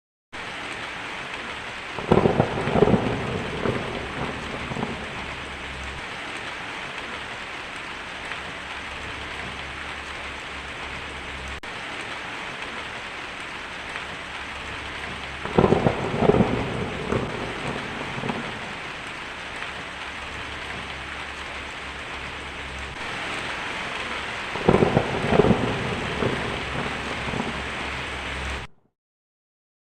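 Heavy rain drumming steadily on a tin roof, with three rolls of thunder about two, fifteen and twenty-five seconds in. The sound starts suddenly just after the beginning and cuts off abruptly near the end.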